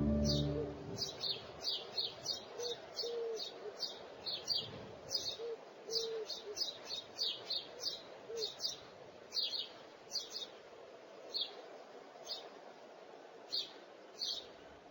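Small birds chirping: many short, high chirps repeated irregularly, with a few short, lower calls mixed in through the first half.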